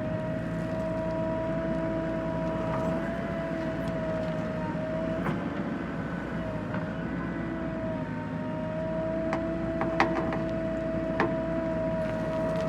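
John Deere tractor engine running steadily: a low drone with a steady high-pitched whine over it and a few sharp clicks and rattles, the loudest about ten seconds in.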